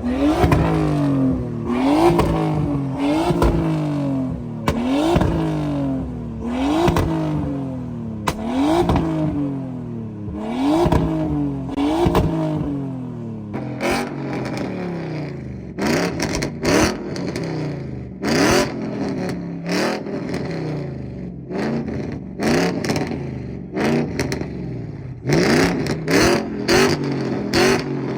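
A tuned car engine revved hard over and over, its pitch climbing and dropping about once a second. From about halfway the revs turn irregular and are broken by sharp pops and bangs from the exhaust, as in a flame battle.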